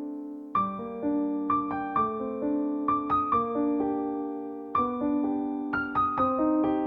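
Background piano music: soft, slow piano with struck notes and chords that ring and fade.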